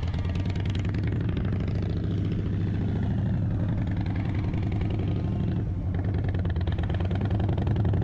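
Indian Chief Bobber's air-cooled Thunderstroke 116 V-twin running at low speed, its note dipping briefly about five and a half seconds in before picking up again.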